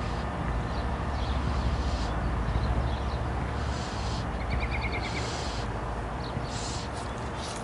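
Birds chirping over a steady low rumble, with a quick run of short chirps about four and a half seconds in.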